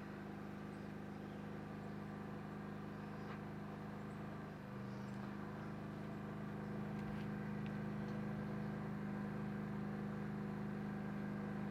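Steady low mechanical hum, like an engine running at a constant speed, with a brief change in its tone about five seconds in.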